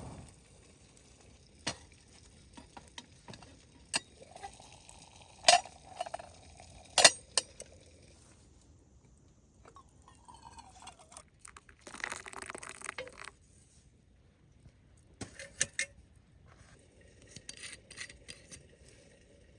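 Metal camp cookware being handled: scattered knocks and clinks, two of them ringing sharply, with a short rough scraping stretch partway through.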